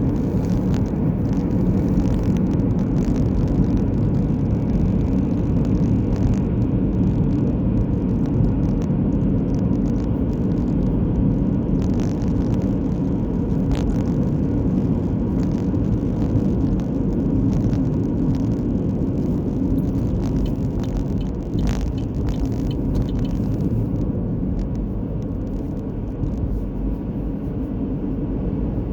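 Steady low rumble of a car driving along a road, with a few brief faint clicks.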